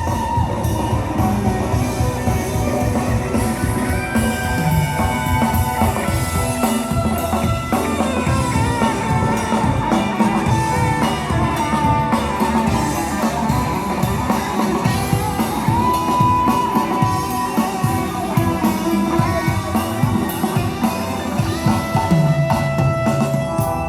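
Live band playing an instrumental passage with drum kit and guitar, a melody line gliding and holding over a steady beat.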